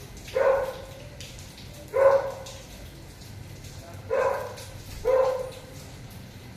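A dog barking four times, single barks spaced one to two seconds apart.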